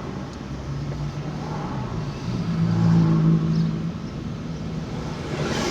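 Car engine and road noise heard from inside the cabin while driving. The engine note rises about two seconds in and eases off again after about four.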